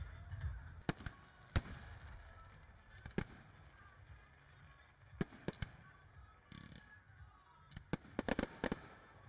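Fireworks going off: scattered sharp bangs, the loudest about a second and a half in, with a quick run of pops near the end.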